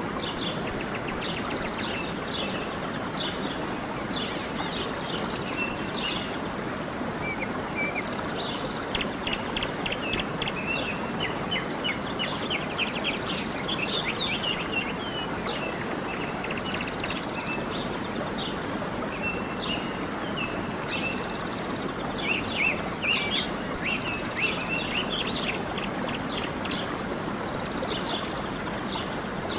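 A creek running steadily, with small birds chirping and trilling over it, busiest in flurries near the middle and again later.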